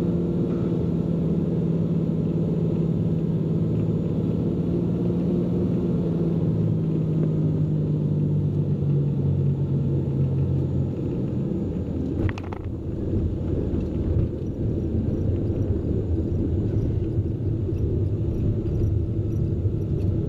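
Cessna P210N's turbocharged six-cylinder engine and propeller droning steadily as heard inside the cockpit. The drone sinks in pitch and drops lower about eleven to twelve seconds in as power comes back. A single brief sharp sound comes at about the same point.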